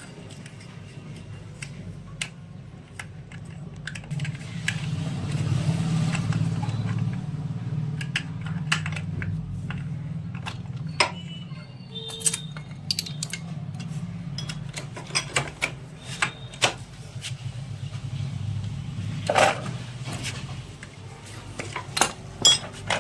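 Metal tools and engine parts clinking and knocking at irregular intervals during a motorcycle engine repair, over a steady low hum.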